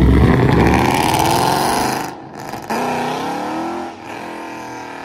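Car engine accelerating hard: its pitch climbs for about two seconds, dips briefly as it shifts, then climbs again before settling lower and fading.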